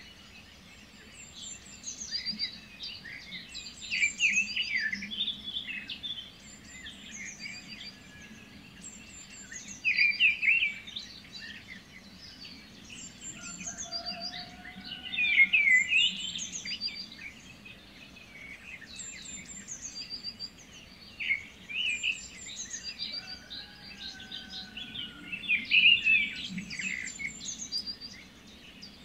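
Birdsong: several birds chirping and trilling in short, overlapping phrases, with louder bursts of song every few seconds.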